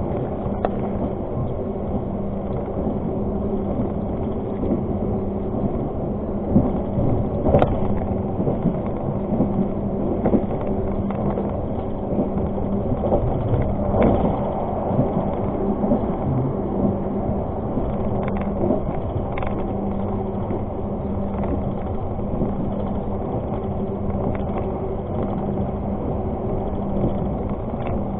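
Argo Parahyangan passenger train running along the track, heard from on board: a steady rumble under a constant hum, with occasional sharp clacks.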